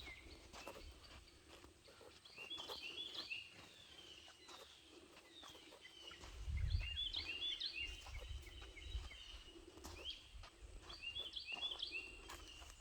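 A songbird singing short phrases of quick chirps, repeated about every four seconds, over a low rumble that is loudest about halfway through.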